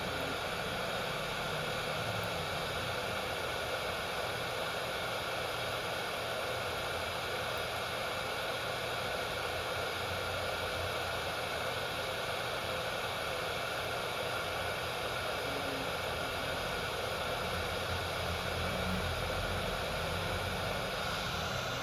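Steady, unbroken hiss like a fan or blower running, with a few faint steady tones in it.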